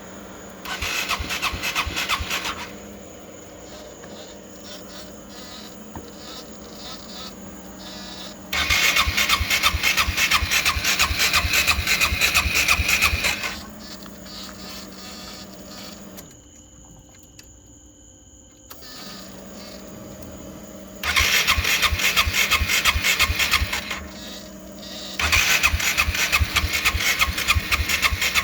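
GY6 scooter engine cranked on its electric starter in four bursts of a few seconds each, each one cut off without the engine settling into a run: the intermittent no-start of this Speeduino-controlled engine. A low steady hum fills the pauses between attempts.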